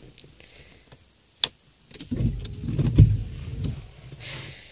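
A car ignition key clicks over, then the engine turns over and starts. Its low rumble is loudest about three seconds in and then settles to a quieter, steady idle.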